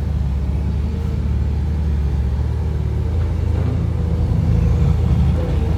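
Heavy diesel engine of an excavator or dump truck running steadily with a deep, even low rumble.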